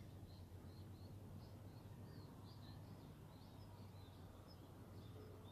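Near silence: faint, distant bird chirps, two or three a second, over a low steady hum.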